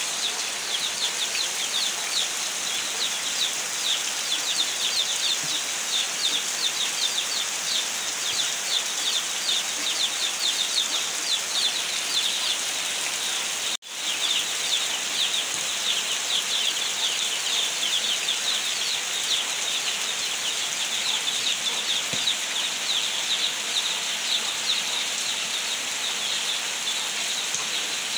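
Heavy rain falling steadily, a dense hiss full of fine, rapid patter. The sound cuts out for a moment about halfway through.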